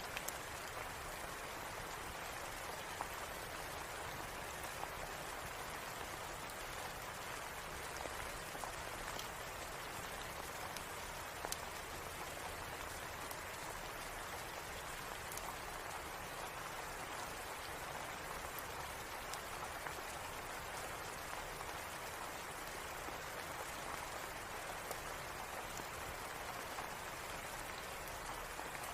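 Steady rain falling, an even hiss, with scattered small crackles and pops from a fireplace.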